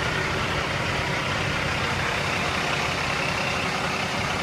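Heavy truck's Cummins ISX diesel engine idling steadily.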